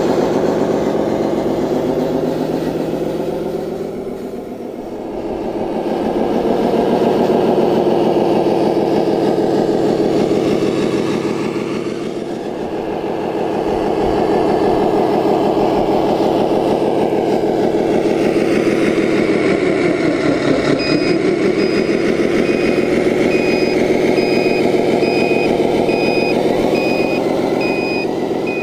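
An RC scale truck's sound module playing a diesel truck engine, running and revving, with the pitch falling away and climbing back three times. About three quarters of the way through, regular reversing beeps start and keep going as the truck backs up.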